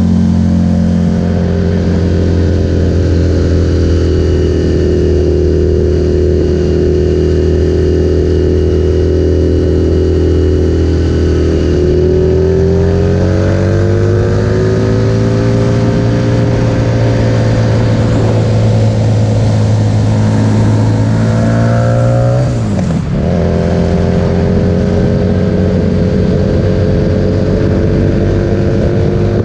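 Harley-Davidson Street Rod 750's V-twin engine through a Vance & Hines aftermarket exhaust, running steadily. Partway through its pitch rises slowly and holds. Near two-thirds through the pitch drops sharply for a moment, then the engine settles back to a steady note.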